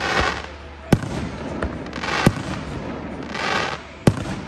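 Aerial firework shells bursting: a sharp bang about a second in, another about a second and a half later, and a third near the end, with a smaller pop between the first two. Rushes of hiss fill the gaps between the bangs.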